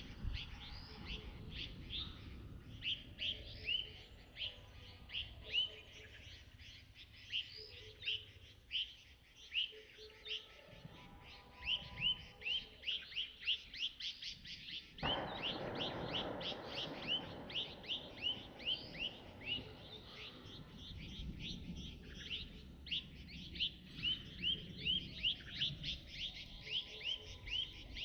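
A bird chirping over and over, short high chirps several times a second. About halfway through, a rush of steady noise rises for a few seconds under the chirps.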